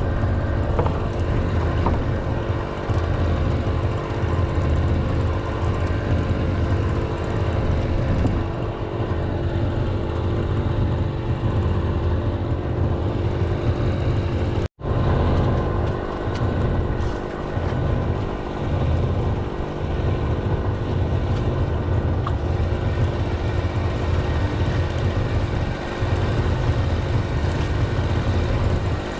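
A small engine on a fishing boat running steadily, with a low rumble that swells and dips. The sound cuts out for an instant about halfway through.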